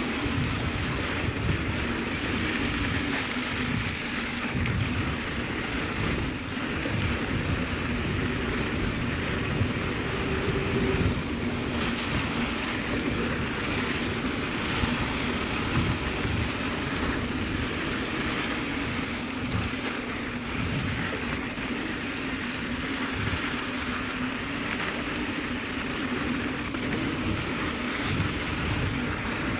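Mountain bike rolling along a sandy dirt trail, with wind buffeting the microphone over the noise of the tyres on sand.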